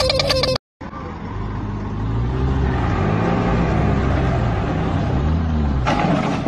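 Tractor engine running hard after a cut at about half a second, its note rising and falling several times as it labours.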